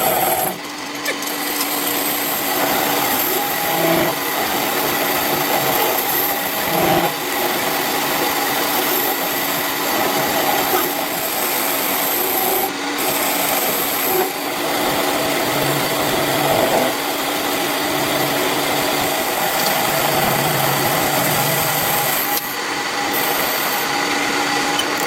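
A power tool working metal: a steady, continuous scraping, grinding noise with a faint whine.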